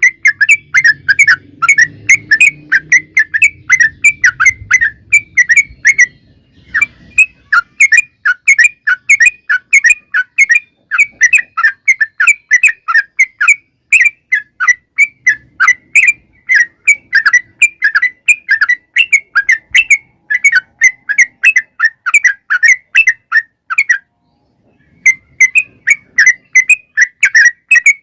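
Yellow-vented bulbul (trucukan) singing a long, rapid run of short chirping notes, about four a second, broken by brief pauses about six seconds in and near the end.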